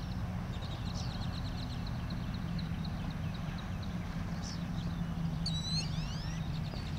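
Birds chirping over a steady low hum. A quick run of short repeated chirps comes early, and a more elaborate call with sweeping notes about five and a half seconds in.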